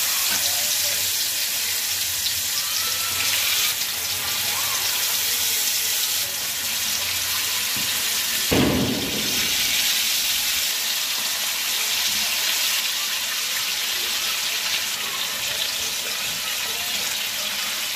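Marinated chicken pieces deep-frying in hot oil in a pan: a steady, loud sizzle, with one brief louder burst about eight and a half seconds in.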